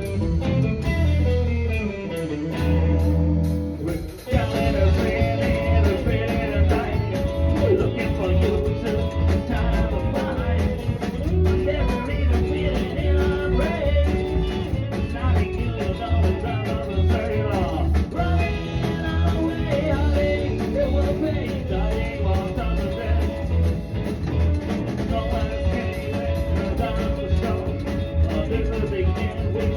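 Psychobilly band music: upright double bass with guitar and drums. About four seconds in, after a brief break, the full band comes in with a fast, steady beat.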